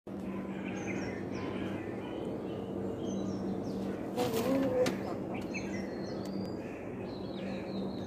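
Small birds chirping, with many short high chirps and whistles, over steady outdoor background noise and a low hum. About four seconds in there is a brief louder rustle with a short wavering sound.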